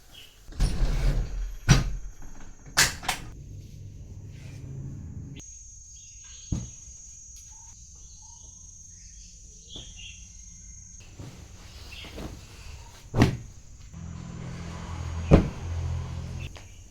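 Household knocks and bumps, several sharp ones scattered through, with stretches of low rumble in between.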